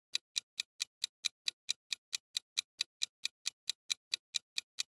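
A steady clock-like ticking, about four to five ticks a second: a quiz countdown timer sound effect.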